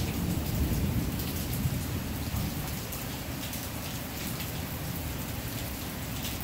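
Steady rain falling on a hard surface, with faint scattered drips and a low rumble underneath.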